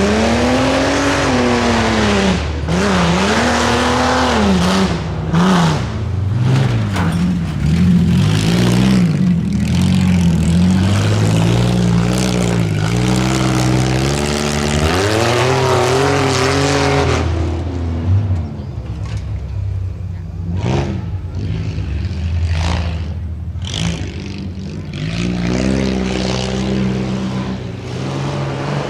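Off-road competition truck engine revving hard, its pitch climbing and dropping again and again as the throttle is worked. After about 17 seconds it falls to lower, uneven running with a few short knocks, then revs up again near the end.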